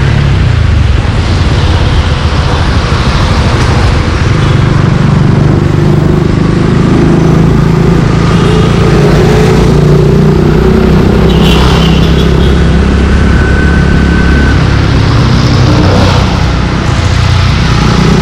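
Suzuki Gixxer 155's single-cylinder engine running through an aftermarket exhaust while ridden, its note rising and falling with the throttle.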